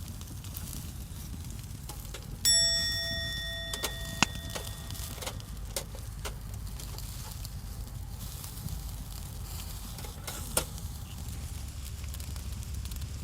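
Skewers grilling over a campfire, with faint sizzling and crackling. About two seconds in, a metal object is struck once and rings with a clear tone that fades over a second or two, and a few sharp clicks follow.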